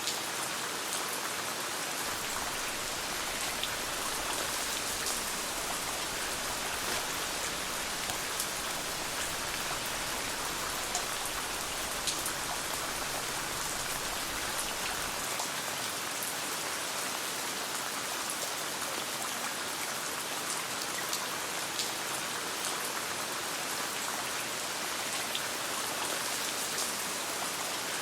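Steady rain falling in a dense patter, with scattered sharp ticks and pops of a crackling campfire.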